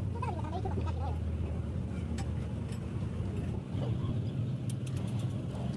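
A steady low engine hum that steps up slightly in pitch about two-thirds of the way through, with a few faint sharp clicks and faint voices in the background.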